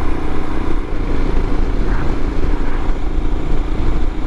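Royal Enfield Himalayan's single-cylinder engine running steadily at cruising speed, with wind and road noise.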